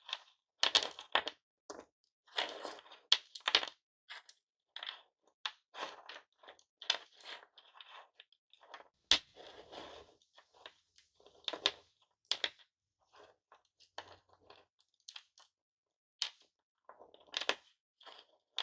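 Hard lollipop candy being crushed and its broken pieces handled, giving irregular short crunches and sharp clicking cracks with brief pauses between them.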